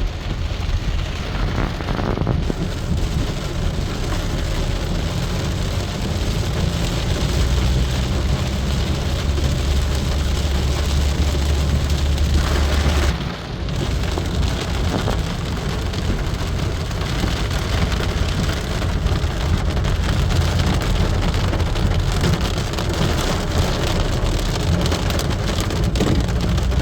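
Rain falling steadily and pattering on surfaces, with a low rumble underneath. The sound dips briefly about thirteen seconds in.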